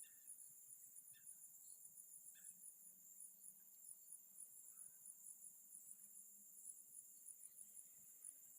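Faint, steady chorus of crickets, a high continuous trilling with rapid pulses, with a few faint short chirps in the first few seconds.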